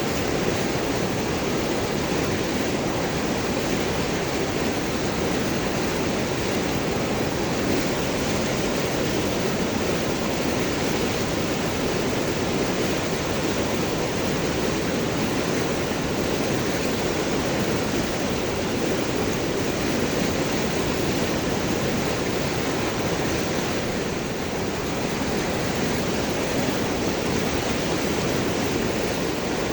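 River water flowing and gurgling over and around large rocks: a steady rushing noise, fullest in the lower-middle range, unchanging throughout.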